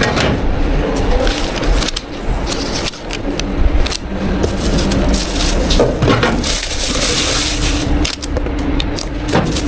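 Drink-shop counter work: repeated knocks, clatter and scraping of cups, utensils and containers over a steady low machine hum.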